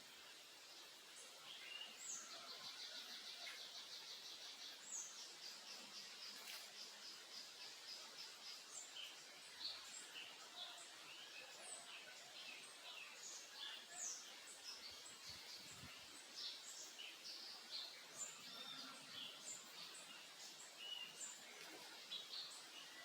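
Small songbirds chirping and singing faintly, several short high calls overlapping, with a fast trill of rapidly repeated notes about two seconds in. A faint steady hiss lies beneath.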